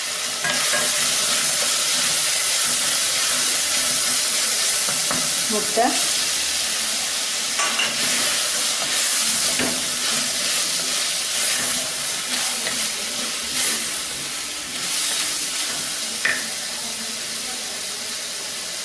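Chopped vegetables and scrambled egg sizzling as they fry in a clay pot, stirred with a wooden spatula that scrapes across the pot, with a few light knocks of the spatula against it.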